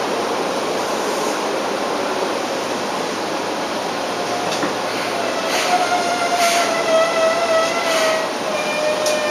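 Seibu 2000 series electric train heard from inside the car, rolling and braking into a station. From about halfway a high squeal slowly falls in pitch, with a few knocks, as the train slows to a stop.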